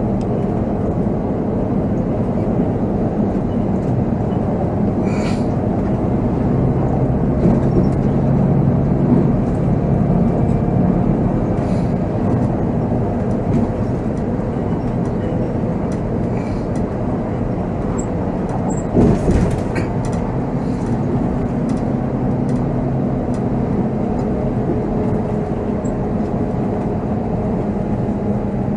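Volvo B7R tour coach's diesel engine running steadily under way, heard from the driver's seat with road noise. Its note shifts a little between about 6 and 11 seconds in, and there are a few short rattles, the loudest a brief clatter about 19 seconds in.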